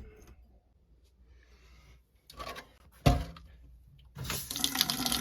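A single loud thump about three seconds in, then the hot water tap of a sink is turned on and water runs steadily into the basin near the end.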